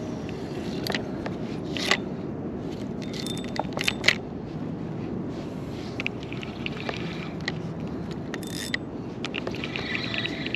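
Steady water and wind noise around a fishing kayak, with scattered sharp clicks and knocks from gear on the boat.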